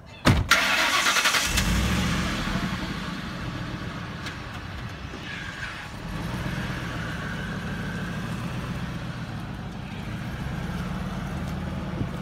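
1997 Ford F-150 Lariat pickup engine starting: the starter cranks briefly, the engine catches after about a second and a half and runs up, then settles into a steady idle.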